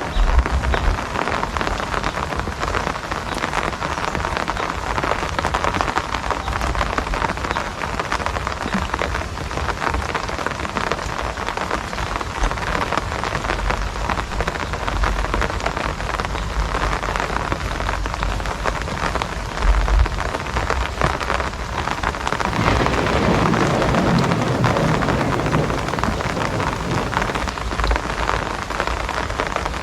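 Steady rain falling, a dense even patter, recorded on a phone. The sound swells lower and fuller for a few seconds about two-thirds of the way through.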